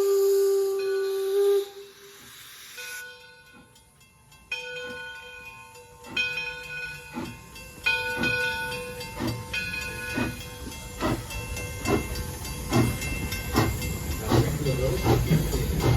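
Steam locomotive whistle blast that cuts off about a second and a half in, followed by a hiss of steam. The locomotive then starts working, its exhaust chuffs coming in an even beat that quickens toward the end as the train gathers speed.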